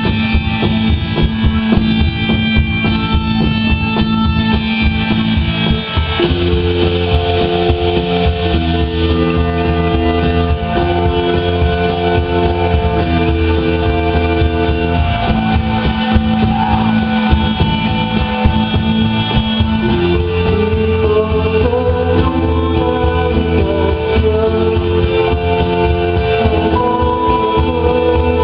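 Live rock band playing an instrumental passage: electric guitar, bass, drums and synthesizer, loud and continuous. About six seconds in, the band moves into held chords that change roughly once a second over a steady bass and drum beat.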